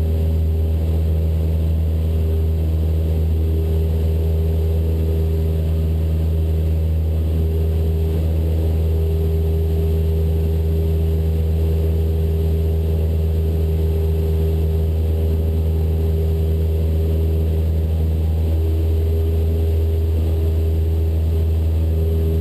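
Cessna 172 Skyhawk's four-cylinder Lycoming engine and propeller running steadily at takeoff climb power, a constant low drone.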